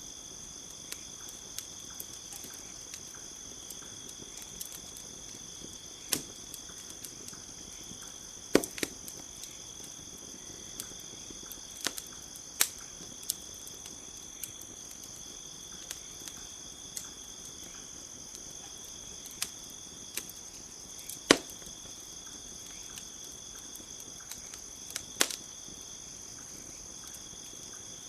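Campfire crackling with irregular sharp pops and snaps, a few much louder than the rest, over a steady high chorus of crickets.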